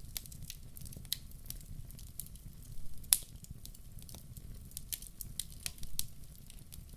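Wood fire crackling in a fireplace: irregular sharp pops and snaps from burning logs over a low steady rumble, with one louder pop about three seconds in.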